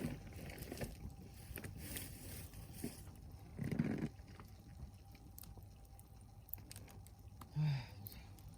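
Log campfire crackling, with scattered sharp pops. A dull muffled bump a little before halfway, and a brief hum from a person near the end.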